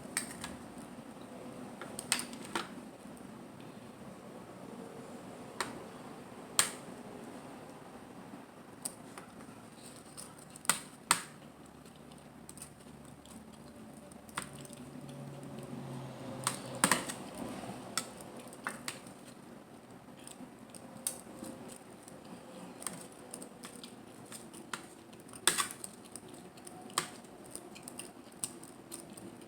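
Close-miked eating of mussels and clams: scattered sharp clicks and cracks, a few loud ones among many soft, over quiet mouth and handling sounds.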